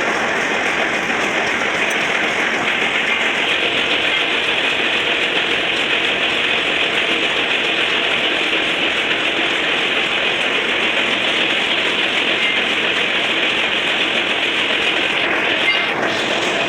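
Metal lathe running, a loud, steady mechanical noise that holds without a break.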